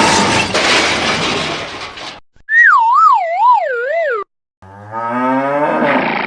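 A string of cartoon sound effects. First a loud rushing noise for about two seconds that fades out, then a wavering whistle that slides downward, then a long rising call.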